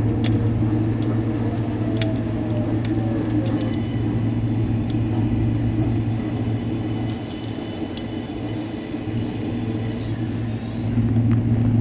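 An R142A subway car's steady low hum while it stands at a station, with scattered light clicks.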